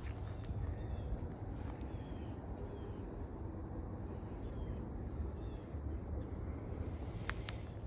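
Outdoor ambience: a steady high drone of insects, with a low rumble like wind on the microphone. A few faint short chirps sound through it, and there are two sharp clicks near the end.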